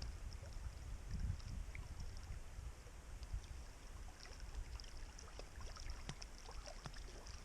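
Wind rumbling on the microphone, with faint scattered ticks above it.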